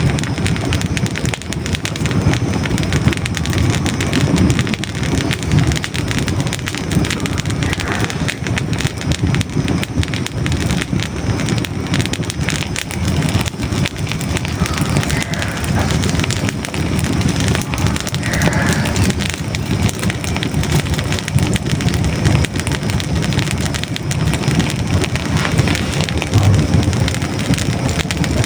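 Hardwood logs burning in a fireplace: a steady low rumble of flames with dense small crackles and pops throughout.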